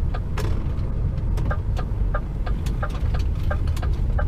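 Lorry cab turn-signal indicator ticking in a regular tick-tock over the steady low rumble of the HGV's diesel engine, with one sharp click shortly after the start.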